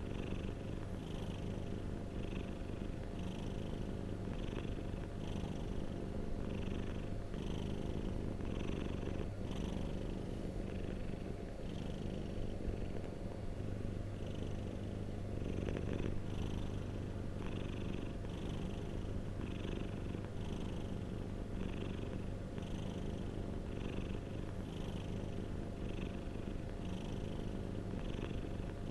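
Domestic cat purring steadily and continuously, with a soft rhythmic swell about once a second.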